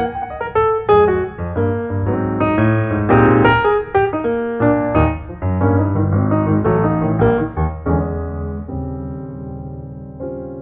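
Background piano music, notes struck in quick succession, ending on a held chord that slowly fades out.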